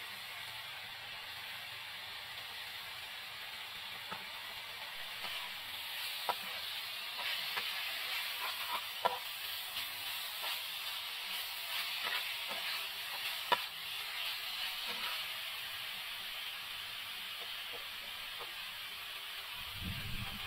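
Pork cubes sizzling steadily in a nonstick frying pan, stirred with a metal spatula that knocks and scrapes against the pan in a string of sharp clicks through the middle stretch.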